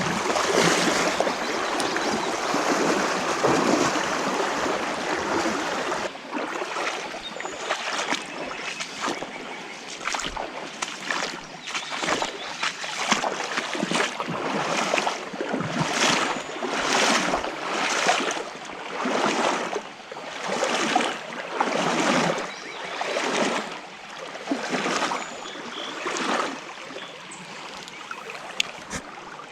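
Creek water rushing, then rhythmic sloshing and splashing about once a second, like legs wading through shallow water.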